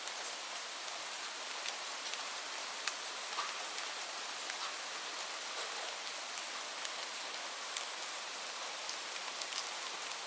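Steady rain falling on leaves, a constant hiss with many single drops ticking through it.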